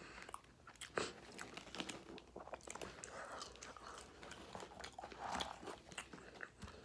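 Mouth chewing a bite of Whopper burger: soft, wet chewing with many small clicks, and a sharper click about a second in.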